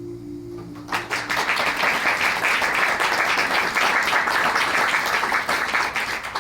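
The last guitar chord rings out and fades. About a second in, audience applause breaks out and carries on.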